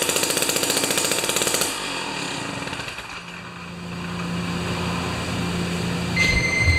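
Jiffy 30 ice auger's Tecumseh 3 hp two-stroke engine running fast and loud, then dropping off sharply about two seconds in, leaving a low steady hum.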